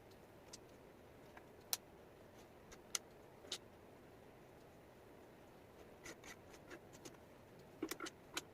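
Light, irregular clicks and taps of wooden jigsaw pieces being handled and set down on a table, over a faint steady hiss; a quick flurry of clicks comes near the end.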